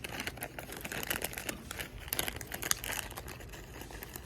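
Crinkling and crackling of something being handled, in a dense run of many quick crackles.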